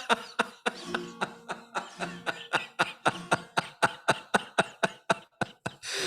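Laughter in quick, even pulses, about four a second, in response to a joke.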